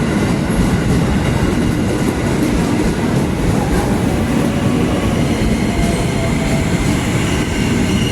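Locomotive-hauled train running past on the rails: a loud, steady rumble of wheels and running gear.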